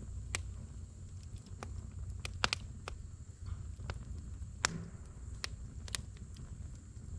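Firewood burning in a campfire, crackling with sharp, irregular pops, a few a second at most, over a low steady rumble.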